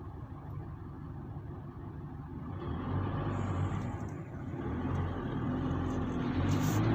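Road and engine noise of a moving car heard from inside the cabin: a steady low rumble that grows louder after about two and a half seconds.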